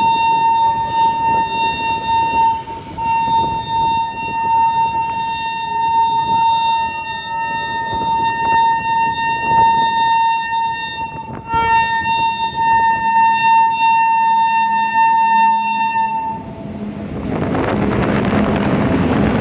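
Indian electric locomotive's horn sounding one long steady blast, broken briefly about two-thirds of the way through, as it approaches the crossing. Near the end the horn stops and the loud rumble of the locomotive and wagons running past on the rails takes over.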